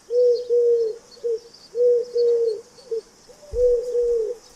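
A bird's low hooting calls, repeated in short phrases of a brief note followed by two longer held notes, all at about the same pitch.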